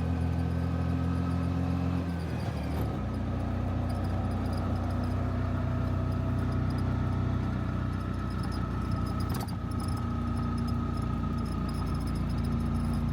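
Steady mechanical hum like an engine or motor running, its pitch shifting a little about two and a half seconds in.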